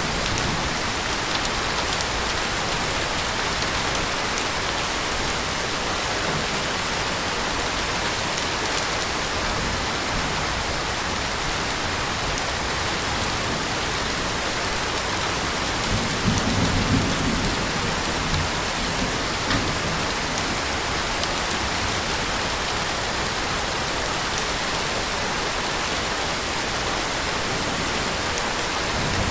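Heavy rain falling steadily on surfaces, an even, dense hiss of drops. About halfway through comes a brief low rumble.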